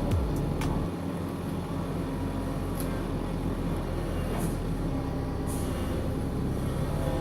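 Heavy diesel engine of a work vehicle running steadily with a low rumble.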